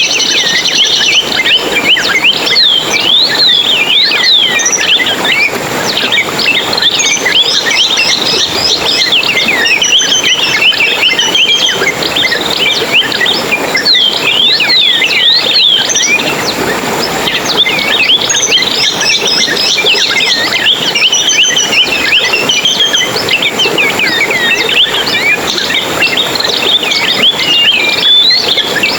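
A chorus of many small birds chirping and twittering together, with rapid, overlapping high-pitched calls going on without a break over a steady hiss.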